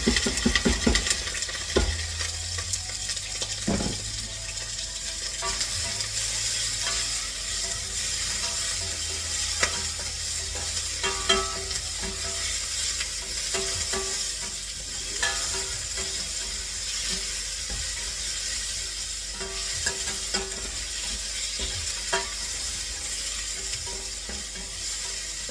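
Food sizzling in hot oil in a pan, with scattered clicks and scrapes of a utensil stirring it.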